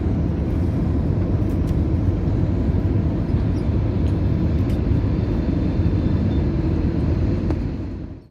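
Steady low rumble of airliner cabin noise, fading out near the end.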